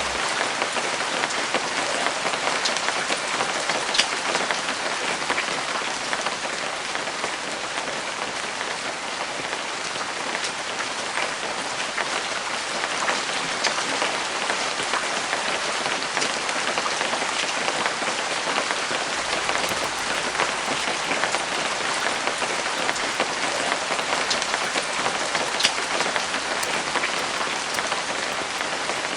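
Steady rain falling, with many scattered sharp drop hits.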